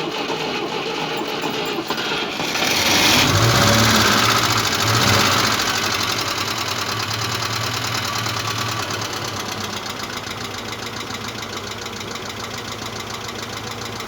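Moskvich 2140's UZAM four-cylinder engine being started, catching about two and a half seconds in, revving briefly, then settling to a cold idle with a steady rhythmic knock. The owner describes the knock as a ringing one around the fourth cylinder and wonders whether the bearing shells are to blame.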